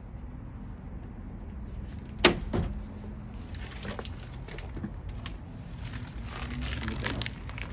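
Hand work on truck parts: one sharp knock a little over two seconds in and a smaller one just after, then scattered light clicks and rustling of parts being handled.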